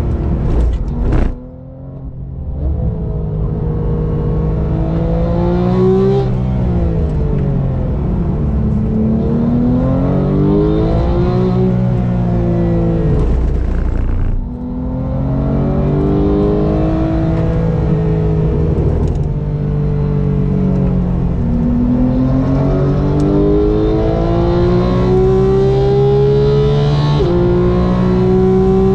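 Sports car engine running hard on a race circuit, its pitch climbing under acceleration and falling away under braking several times over. Near the end the pitch drops sharply at an upshift.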